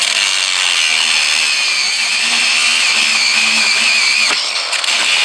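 Small power tool running continuously with a high, slightly wavering whine as its worn-down cutting blade cuts through a cast-iron stove's screw, with a brief dip about four seconds in.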